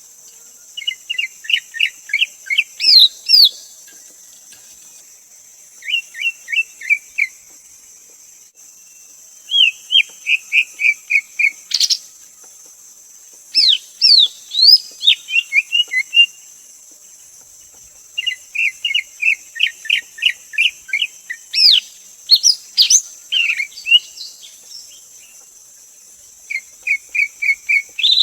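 Greater green leafbird singing: bursts of quick repeated chirping notes, some mixed with higher sweeping whistles, coming every few seconds over a steady high hiss.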